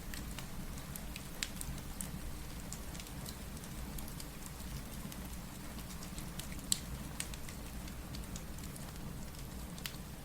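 Steady rain together with a fireplace crackling: scattered sharp pops over an even low rumble, the loudest pop a little past halfway.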